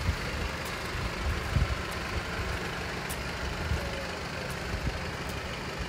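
Volkswagen Passat B8's 2.0 TDI four-cylinder diesel engine idling with a low, steady rumble.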